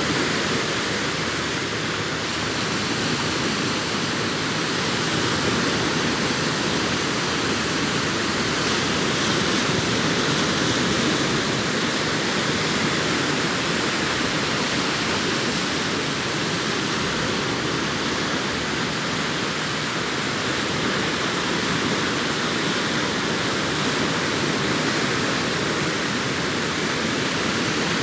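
Sea waves breaking on a sandy beach: a steady, unbroken rush of surf with no single wave standing out.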